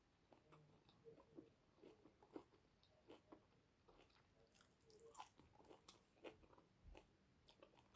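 Faint close-up chewing: a person eating, with irregular soft mouth clicks and smacks.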